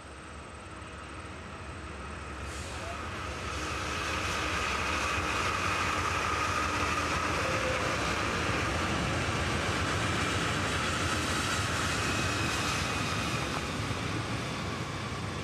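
Norfolk Southern diesel freight locomotives passing close by, growing louder over the first few seconds and then running steadily. A steady whine sits over the engine noise.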